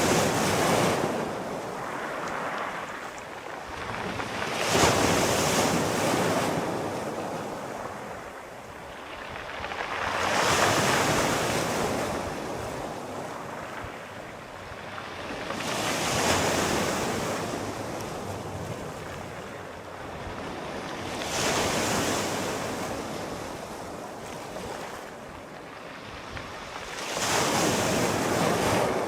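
Sea waves breaking on a shore, one surge about every five to six seconds, each rising into a hissing wash and fading away.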